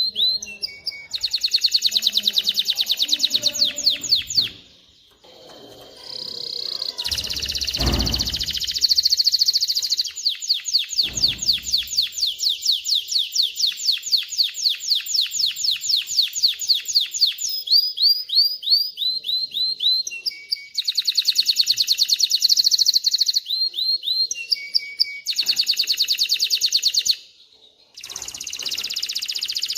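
Male canary singing long, rapid trills of repeated high notes in phrases, with a couple of short pauses. A low thump sounds about eight seconds in.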